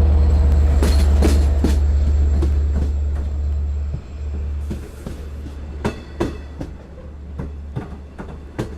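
LIRR DE30AC diesel-electric locomotive passing close with its engine rumbling loudly. About four seconds in the rumble drops away, and the Kawasaki C3 bilevel coaches roll by with wheels clicking and knocking over the rail joints as the train comes into the station.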